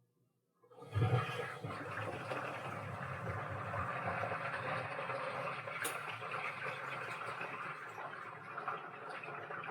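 Washing machine with water suddenly starting to rush into the drum about a second in, then running on steadily.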